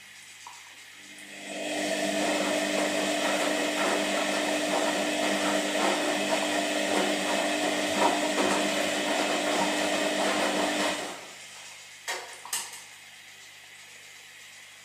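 Washing machine motor running: it starts up about a second and a half in, runs steadily with a held hum and a busy whir, then winds down and stops near the end, followed by two short clicks.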